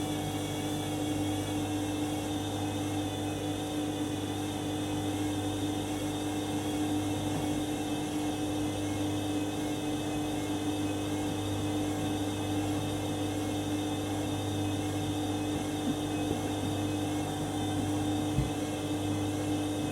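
Candy washing machine running steadily during a 90-degree main wash: a constant motor hum with a faint wavering whine above it.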